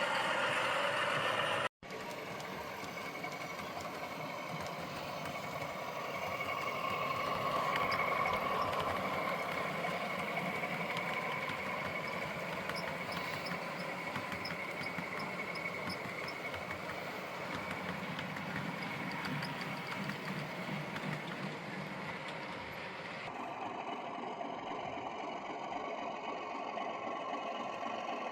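Model diesel locomotive's sound decoder playing a Class 31 engine running, through the model's small speaker, over the whirr of the model's motor. The sound drops out for an instant just under two seconds in and changes character suddenly about 23 seconds in.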